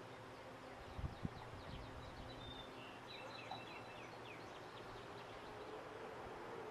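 Faint outdoor background with birds chirping, a run of short falling chirps in the middle. Two soft low thumps about a second in.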